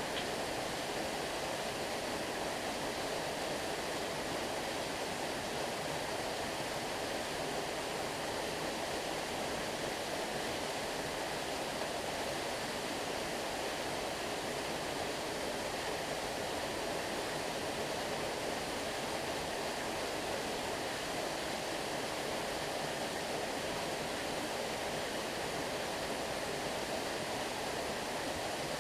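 Stream water rushing in a steady, unbroken roar, the stream running full after a day of rain.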